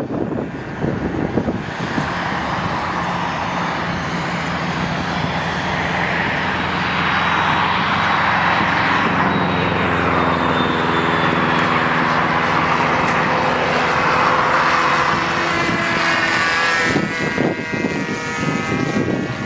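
OS .46 two-stroke glow engine of a radio-controlled model plane running at a steady high speed. Its drone grows louder through the middle and drops back near the end, where wind buffets the microphone.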